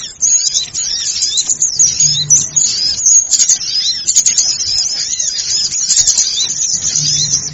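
Dense chorus of small birds chirping and twittering: many high, quick, arching calls overlapping without a break, the agitated flock sound of a bird-lure recording.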